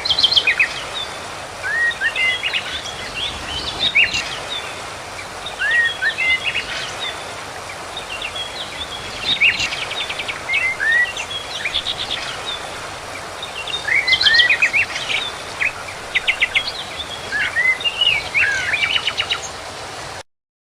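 Songbird singing in the wild: a phrase of sharp chirps, upward-slurred whistles and quick rattling trills, repeated every few seconds over a steady background hiss. The sound cuts off abruptly near the end.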